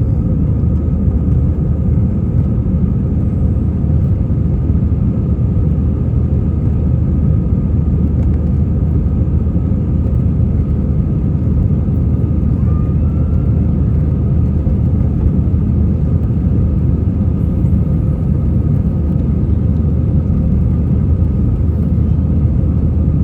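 Steady cabin noise of an Airbus A320-232 in flight: a deep, even rumble from the airflow and the IAE V2500 engines, with a faint steady whine above it.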